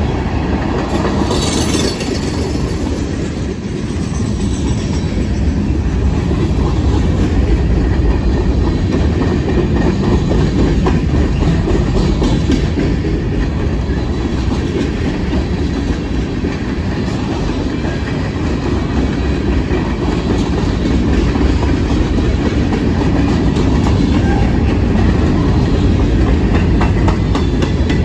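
Freight cars of a mixed freight train, tank cars and covered hoppers, rolling past at close range: a steady heavy rumble with the wheels clattering over the rail joints. A brief high wheel squeal comes in about three seconds in.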